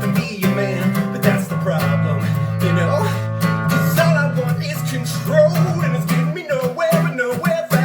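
Acoustic guitar strummed in a steady rhythm, with a voice singing over it in the latter half.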